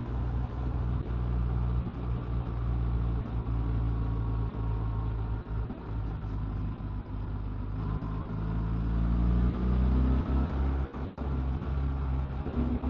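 Motorcycle engine running under way, with steady road and wind noise, getting louder about two-thirds of the way through as the bike speeds up.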